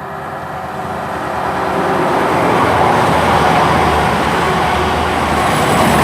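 Class 220 Voyager diesel-electric multiple unit passing through the station without stopping: its diesel engines and wheels on the rails growing louder over the first two seconds or so, then staying loud.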